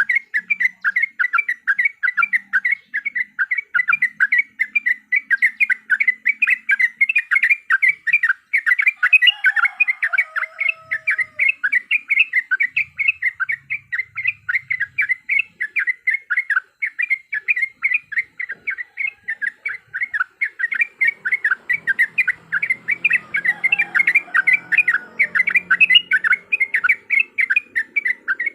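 Yellow-vented bulbul (trucukan) lure call: a fast, steady run of short chirping notes, about five a second. Fainter lower notes come in briefly near the middle and again near the end.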